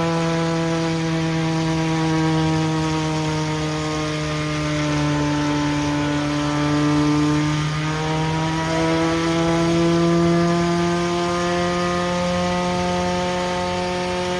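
A truck engine held at high, steady revs throughout, its pitch sagging slightly about halfway through and then climbing back.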